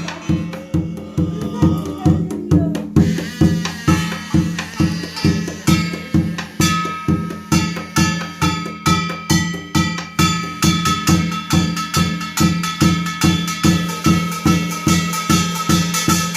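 Korean shamanic ritual music: a drum beating a steady rhythm of about two to three strokes a second, growing busier after about ten seconds. From about three seconds in, a piri (double-reed pipe) joins with a held, buzzy melody line.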